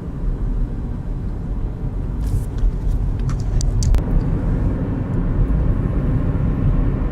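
Car driving at steady speed, its engine and road noise heard as a low, even rumble from inside the cabin, with a few faint clicks midway.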